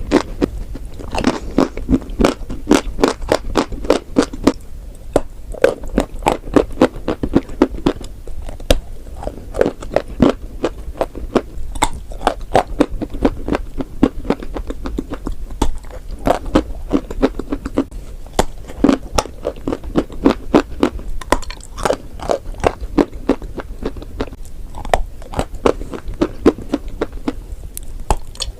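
Chalk and clay being crunched: a dense, continuous run of crisp cracks and crumbles, several a second.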